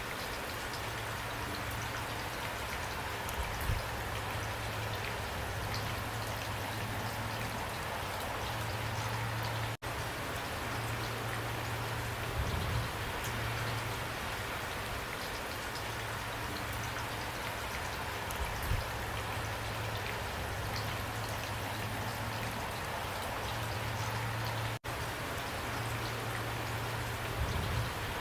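Steady rain falling, with individual drops pattering, a faint low hum coming and going, and a few soft low thumps. The sound cuts out for an instant twice, about fifteen seconds apart.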